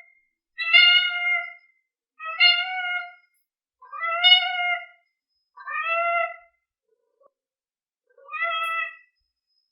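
Domestic cat meowing, five separate meows each lasting under a second, spaced a second or so apart.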